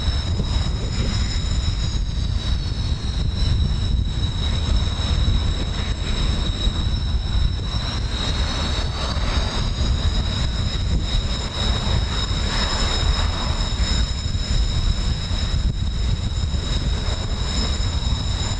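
Jet trainers' turbofan engines whining high overhead, several thin high tones that slowly slide in pitch as the aircraft move. Under them runs a loud, steady rumble of strong wind on the microphone.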